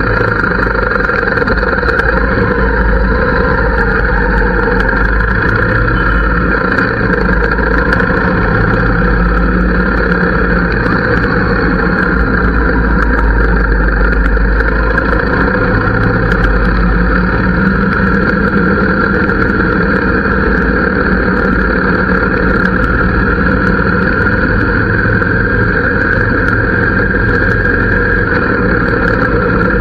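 Harley-Davidson V-twin engine running steadily at an even level, with no sharp revs.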